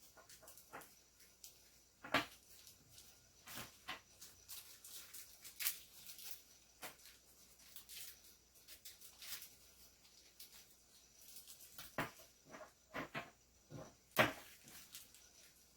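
Scattered light clicks and taps from small pen parts being handled, with no lathe or other machine running.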